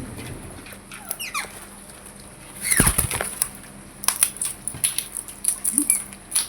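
Pet green parrot giving short calls that fall in pitch, a faint one about a second in and a loud one about three seconds in, followed by a run of sharp clicks and taps.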